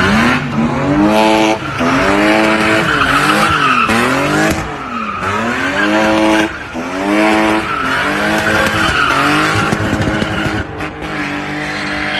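BMW E30 drift car's engine revving hard, climbing and dropping in pitch every second or two, with tyres skidding and squealing throughout.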